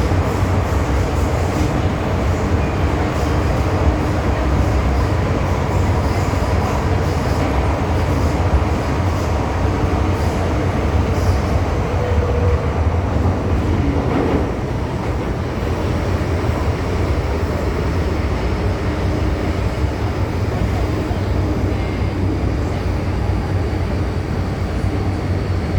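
MTR M-Train electric metro train running at speed through a tunnel: a steady, loud rumble of wheels on rail and running gear, with a faint hum of the traction equipment.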